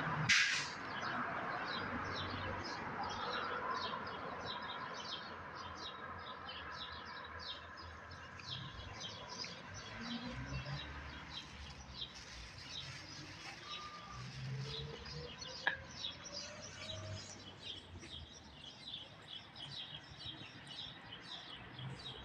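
Small birds chirping over and over, a quick string of short high chirps that runs on throughout, with one sharp click about half a second in.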